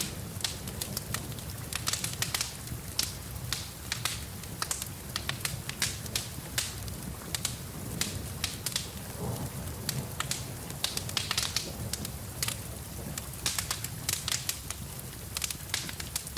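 Wood fire crackling, with irregular sharp pops several a second, over a steady hiss of rain.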